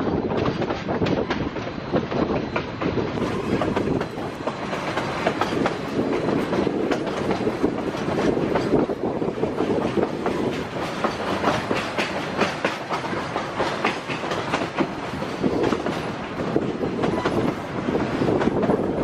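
Narrow-gauge railroad passenger car rolling along the track: a steady rumble with rapid, irregular wheel clatter over the rail joints.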